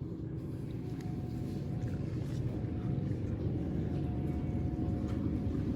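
Low, steady rumble of a running vehicle, growing slightly louder.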